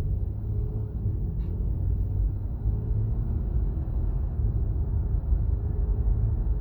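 Road and tyre rumble inside the cabin of a moving 2017 Acura MDX, steady and low, with a faint thin high-pitched tone running above it. This is the whine that grows with road speed, which the owner places at the front passenger side; it persists after the tyre pressures were lowered.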